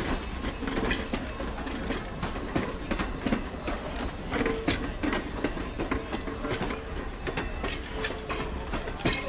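Railroad cars rolling past on the track, their wheels clicking irregularly over the rail joints.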